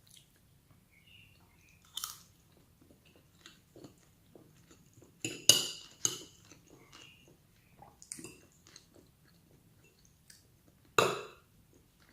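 Close-up eating sounds: a person chewing and biting food, with scattered mouth clicks and a few louder sudden sounds about two, five and eleven seconds in.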